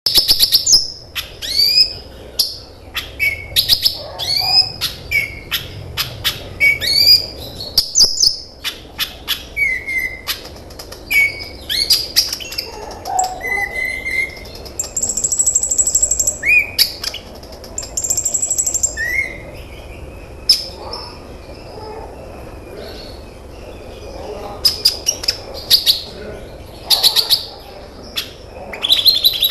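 Small songbird singing a fast, varied song of sharp high chirps and upslurred whistles, with two held high trills about halfway through.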